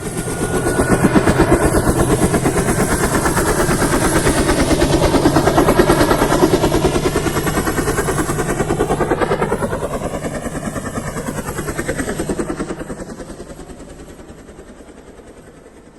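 Helicopter flying past: a rapid, even chop of rotor blades that swells in, holds, bends in pitch around the middle as it passes, and fades away near the end.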